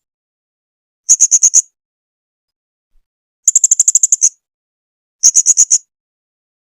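Blue-crowned hanging parrot (serindit) calling: three short, rapid runs of sharp, high-pitched chirps, roughly ten notes a second, with pauses of about a second between runs.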